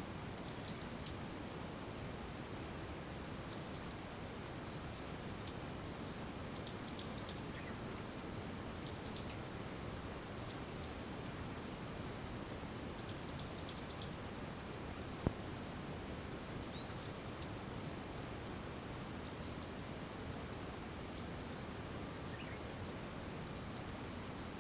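Steady rain hiss with a small bird calling over it in short, high chirps, some in quick runs of three or four. A single sharp tap about fifteen seconds in.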